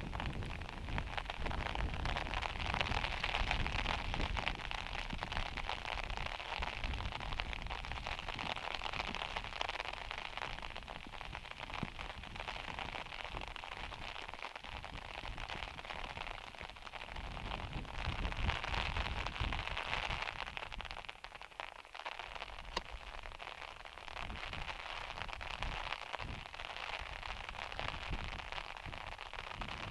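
Heavy rain hitting a van's metal roof: a dense, steady crackle of drops that swells and eases slowly.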